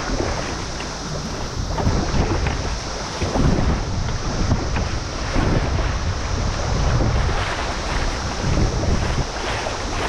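River water rushing and splashing around a whitewater kayak, with wind buffeting the microphone in uneven gusts.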